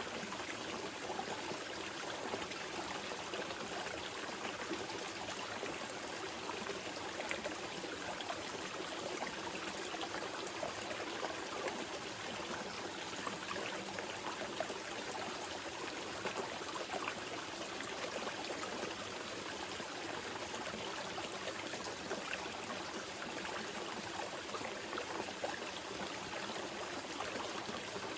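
Small mountain river flowing steadily over rocks, a continuous gentle rushing with small trickles and splashes.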